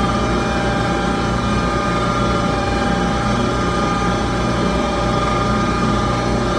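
Gas furnace's inducer fan motor running steadily with a hum and a constant whine during the ignition attempt. No burner lights: the igniter glows but the gas does not catch, which the owner puts down to either no gas or a weak igniter.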